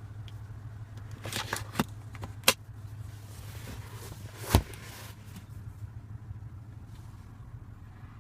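Steady low hum in the Audi Q7's cabin, with a few sharp plastic clicks and, about halfway through, a louder knock as the rear centre armrest and its cup holders are handled.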